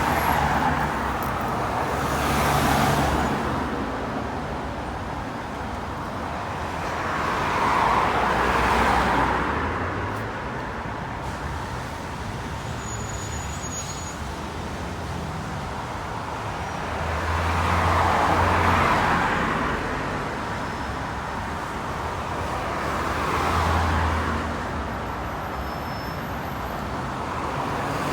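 Road traffic going by a roadside: cars and buses pass one after another, tyre and engine noise swelling and fading with each pass, about four louder passes, some with a deep engine hum.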